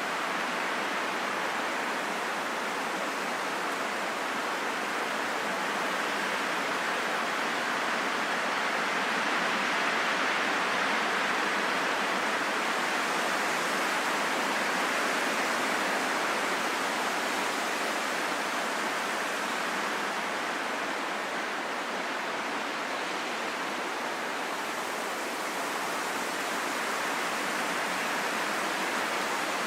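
Steady rushing wind, an even hiss with little low rumble that swells slightly and eases again.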